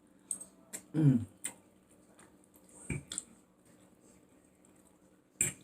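Eating sounds from a close microphone: scattered wet mouth clicks and lip smacks of chewing, with a short hum of enjoyment falling in pitch about a second in.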